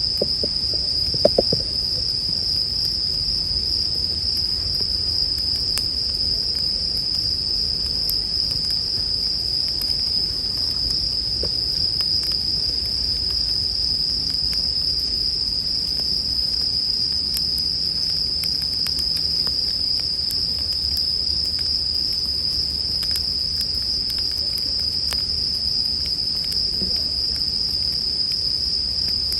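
Japanese bell crickets (suzumushi) singing in a continuous high-pitched trill, with the faint scattered crackle of a campfire beneath and a few louder pops about a second in.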